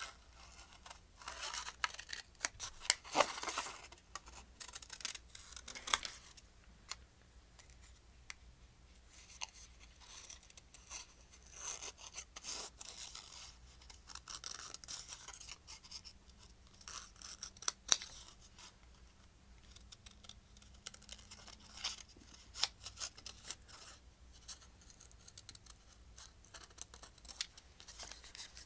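Scissors cutting paper in irregular snips, with paper being handled and rustled and occasional sharp clicks.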